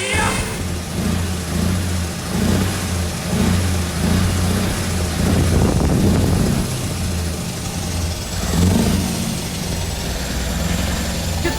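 Scania R520 truck's V8 diesel engine running, swelling and easing several times as it is revved.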